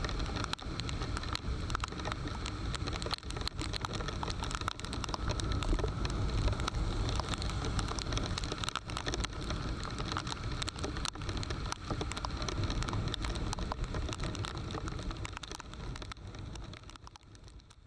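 Heavy rain with many close drops ticking against the microphone, over a steady low rumble from riding through it. The sound fades out near the end.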